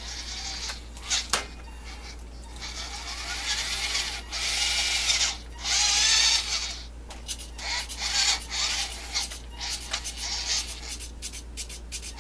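Small electric motor and geartrain of a WPL RC truck running under throttle in repeated bursts, with a whine that rises in pitch as the motor speeds up.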